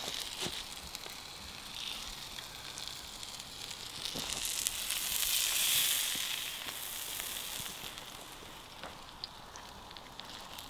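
Burger patties and chips sizzling in a frying pan over a campfire. The sizzle swells about halfway through, then dies down, with a few light knocks.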